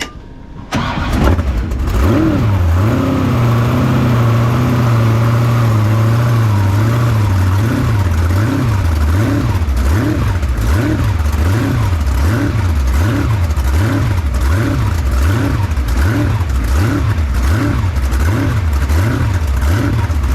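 Unlimited-class V8 jet sprint boat engine firing up about a second in, then running loud. After a few seconds of steady running, its speed rises and falls in a steady rhythm, about one and a half times a second.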